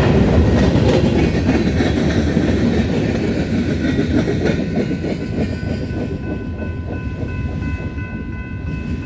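Freight cars of a grain train rolling past, a loud rumble with wheel clatter that slowly fades. A steady high tone comes in about six seconds in.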